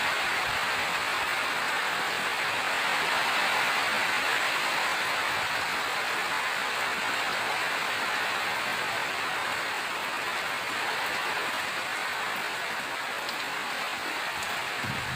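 Steady rainfall, an even hiss of many drops with no let-up.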